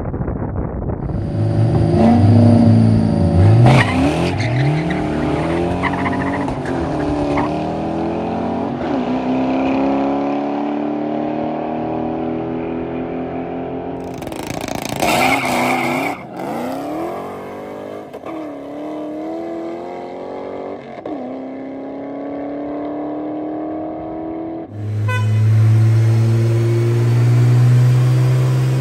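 Tuned twin-turbo BMW N54 inline-six, on stock turbos, at full throttle through the gears: the pitch climbs and drops at each upshift, over two separate runs. Near the end comes a pull on a chassis dyno, with a deep, steady drone rising slowly in pitch.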